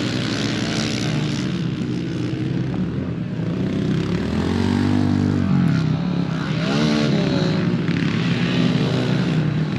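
Several pit bikes racing, their small single-cylinder engines buzzing and revving, rising and falling in pitch as the bikes pass.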